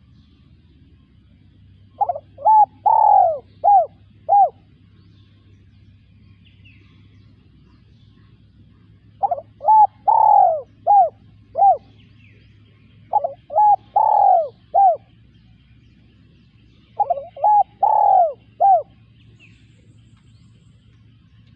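Spotted dove cooing: four phrases of about five notes each, the third note in every phrase drawn out longest.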